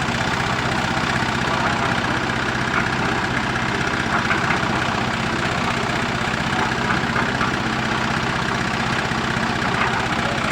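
An engine idling steadily, with a fast even firing beat and no change in speed.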